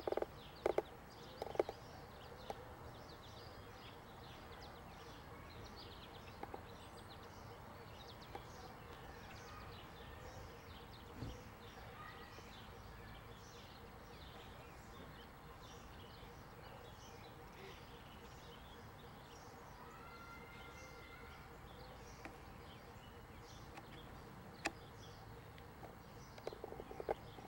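Birds chirping faintly and continually, with a few sharp knocks in the first couple of seconds and again near the end.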